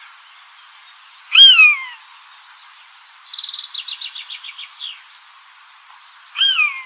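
Birds calling: a loud, downward-slurred call sounds twice, about a second and a half in and again near the end. Between them a fast run of short, higher chattering notes lasts about two seconds.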